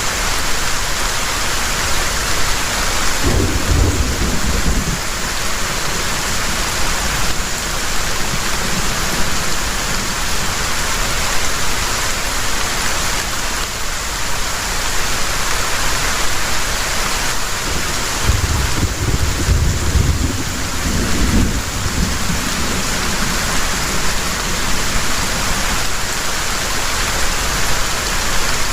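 Heavy rain pouring steadily, with two low rolls of thunder rumbling, the first a few seconds in and a longer one past the middle.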